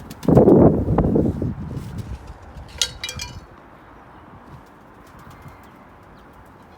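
Domestic pigeons cooing, loudest in the first second and a half, then a short high-pitched chirp about three seconds in.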